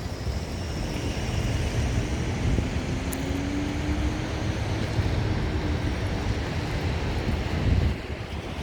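City street traffic: a vehicle's engine passing, with the low rumble of wind buffeting the microphone.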